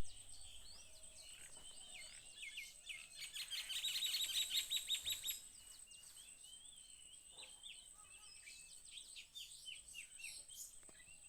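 Small birds chirping, with a fast run of rapid repeated chirps about three to five seconds in, which is the loudest part, over a steady thin high-pitched whine.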